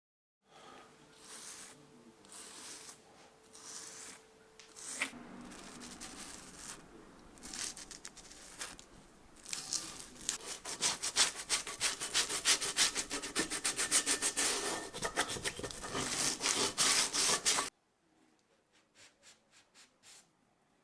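Rubbing and scraping strokes by hand on the old cast-iron vise as it is cleaned. The strokes come in short, uneven bouts at first, then speed up into a fast, steady back-and-forth scrubbing for several seconds that stops suddenly.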